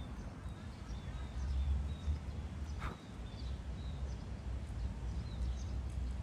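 Birds chirping outdoors: many short, high chirps repeated at irregular intervals, over a steady low rumble, with one sharp click about three seconds in.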